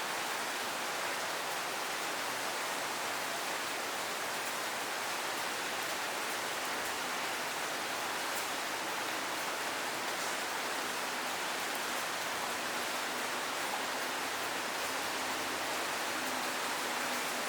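Steady rain falling, an even hiss with no breaks, with a faint low hum underneath.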